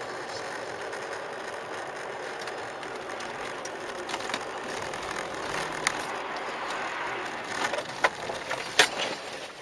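Steady road and engine noise of a moving car, picked up by a dashcam. It is broken in its second half by a few sharp knocks, the loudest about a second before the end.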